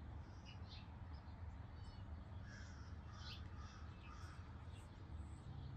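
Faint, scattered bird calls from outdoors over a steady low background rumble.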